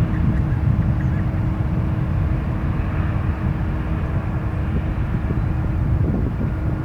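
Jet airliner engines making a loud, rough low rumble with a steady hum, easing slightly toward the end.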